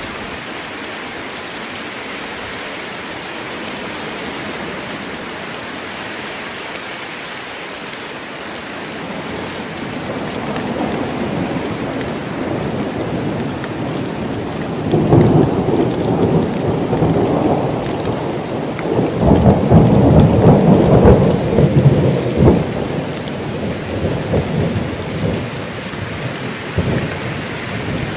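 Steady heavy rain falling in a forest, with a long rolling peal of thunder that builds about a third of the way in, rumbles loudest in two surges past the middle, and dies away near the end.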